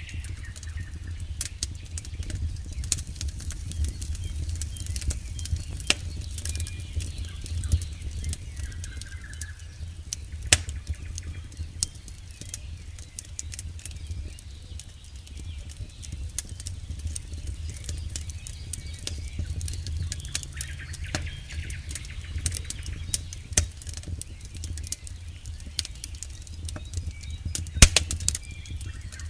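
Campfire burning: wood crackling and popping irregularly over a steady low rumble of the flames, with a sharper pop about ten seconds in and another near the end.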